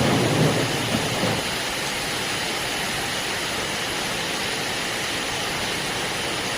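Heavy rain falling as a steady hiss, with a low thunder rumble dying away in the first second and a half.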